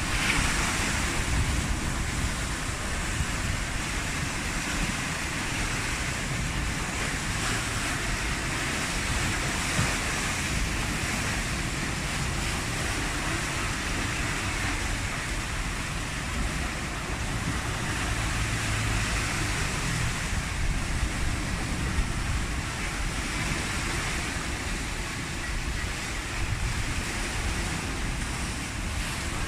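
Storm surf breaking continuously on the shore, with strong wind gusting on the microphone as a low rumble. The sound is a steady rush with no pauses.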